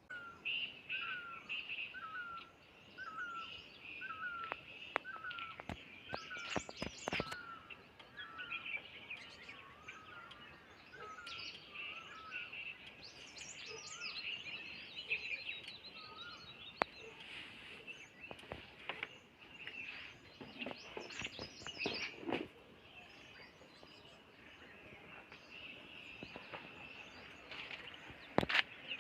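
Outdoor birdsong: one bird repeats a short hooked call about once a second over the first several seconds and again briefly later, over a steady high-pitched background chorus and other scattered chirps. A few sharp clicks come through, most strongly about six seconds in and near the end.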